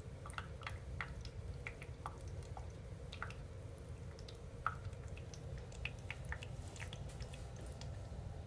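Ultrasonic aroma diffuser running, its water reservoir giving faint, irregular little drips and pops over a low steady hum.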